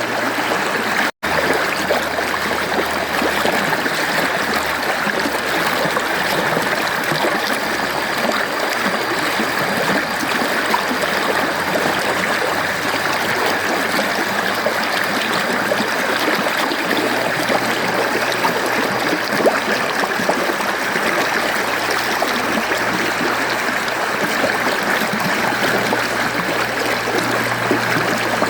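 Mountain stream flowing steadily over rocks, an even rushing and trickling of water. About a second in, the sound drops out for a split second.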